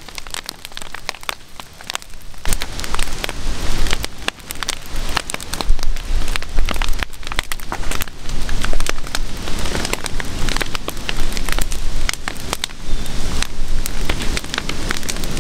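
Heavy rain falling in a short, brisk rainstorm, a dense patter of many sharp drop impacts, with a deep rumble coming in a couple of seconds in.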